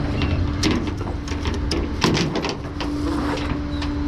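Tow truck engine running with a steady low rumble and hum, while light rattles and clicks sound again and again throughout.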